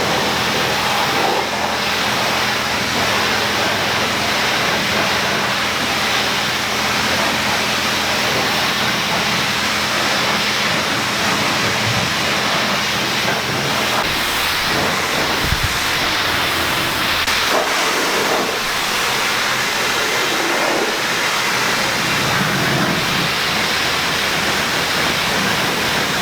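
Car-wash spray hissing steadily as water is blasted onto a car, with a low steady hum underneath for roughly the first half.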